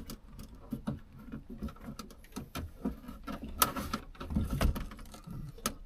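Truck cab interior trim and headliner being bent and twisted by hand: a scatter of small clicks, knocks and rubbing creaks, with a couple of louder knocks a little past the middle.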